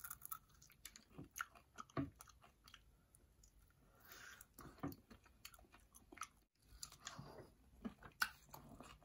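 A person biting into and chewing a chicken drumstick with a crushed-potato-chip crust: faint, irregular crunching chews and mouth clicks.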